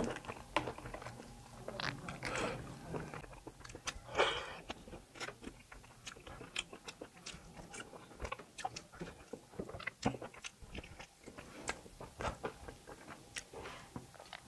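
Close-miked chewing and biting of tough kalij pheasant meat on the bone, with many short sharp clicks and crunches and a louder chew about four seconds in.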